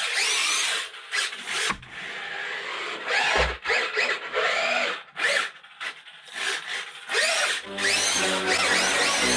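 Tamiya Grass Hopper RC buggy's electric motor revving in short bursts, a whine that rises and falls in pitch with each burst of throttle. Music comes in near the end.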